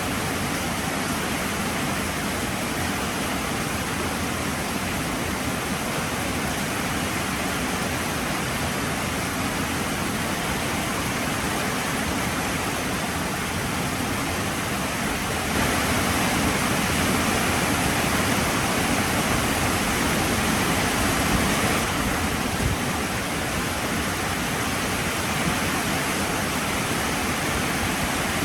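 Heavy rain pouring down as a steady, dense hiss. About halfway through it grows louder for several seconds, then eases back.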